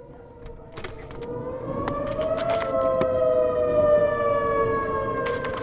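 Whelen Vortex outdoor warning siren wailing for a tornado warning. It grows louder over the first few seconds as the rotating siren turns toward the listener; its pitch rises a little about two seconds in and then slowly falls. A few sharp clicks are scattered through it.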